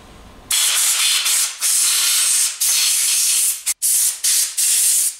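Spray can hissing in blasts: one long blast starting about half a second in, then a string of shorter bursts. It is being used to clean the moped's ignition parts as they go back together.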